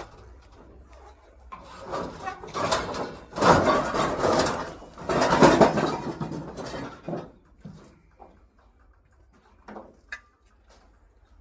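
Scrap being handled: rustling and clattering in several loud bursts over a few seconds, then a few faint knocks near the end.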